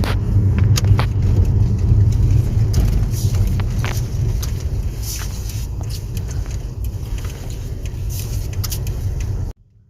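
Car driving: a steady low rumble of engine and tyres, with a few faint clicks, that cuts off suddenly near the end.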